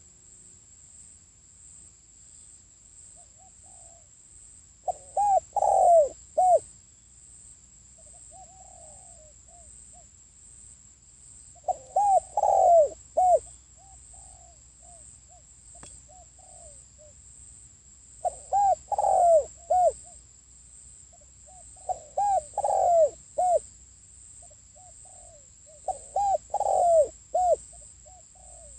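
Spotted dove cooing: five loud phrases of several quick coos, each phrase about a second and a half long and spaced a few seconds apart, with softer single coos between them. This is the dove's call used as a lure to bring wild birds in. A faint steady high whine runs underneath.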